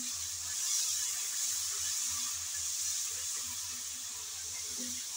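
Spice paste sizzling in hot oil just after a splash of water, with a wooden spatula stirring and scraping it around the pan. The steady sizzle eases slightly over the few seconds.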